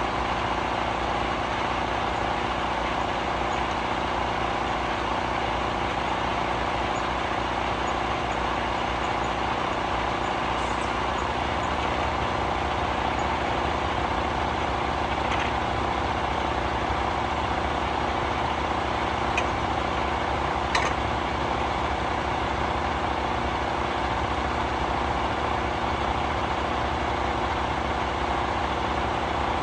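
Semi-truck diesel engine idling steadily, with two short clicks about two-thirds of the way in.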